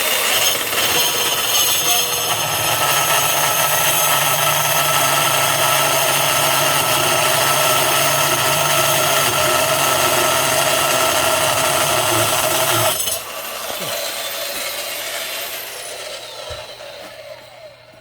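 Ogura HSC-38BL cordless rebar cutter running under load as it cuts through a 35 mm steel rebar, a loud steady grinding machine noise. About thirteen seconds in the cut finishes: the noise drops sharply, and the motor then winds down with a falling whine.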